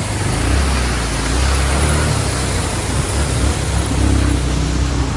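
Vehicle engine running steadily under a low drone, with road and wind noise from riding along.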